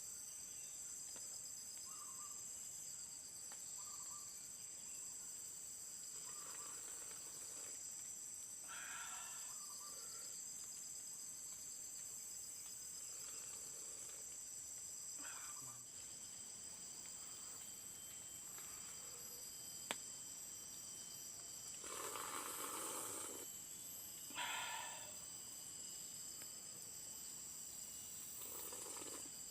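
Steady, high-pitched chorus of forest insects such as crickets, with a few brief, louder noises breaking in now and then. The longest of these, about a second long, comes about three-quarters of the way through.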